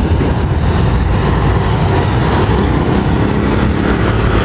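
Steady rumble of a vehicle on the move: engine and road noise heard from the vehicle itself.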